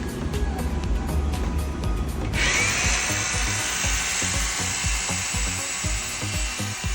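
Background music with a steady beat, then about two seconds in a Dartek PRH 6615 SDS-Plus rotary hammer starts up with a rising whine and runs steadily over the music.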